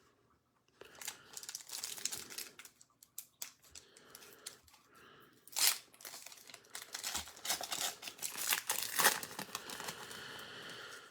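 Trading-card pack wrapper being torn open and crinkled, in irregular crackles and rasps with a sharper tear a little before the middle.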